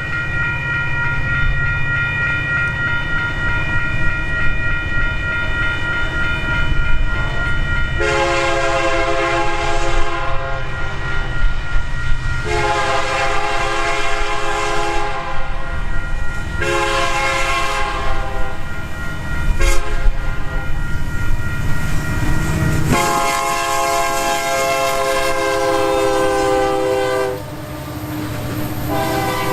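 Union Pacific diesel locomotive's multi-chime air horn sounding a series of long blasts for a grade crossing, over the low rumble of the passing train.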